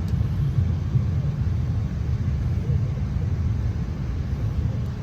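Steady low rumble of cabin noise inside a Boeing 777 airliner on the ground before takeoff.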